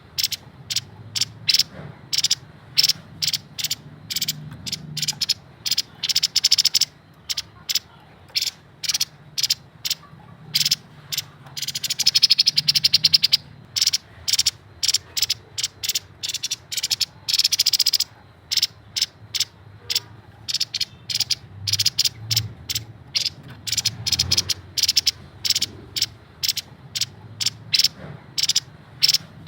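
Grey-headed babbler singing a rapid string of short, sharp high chips, several a second, broken about halfway through by two fast rattling trills.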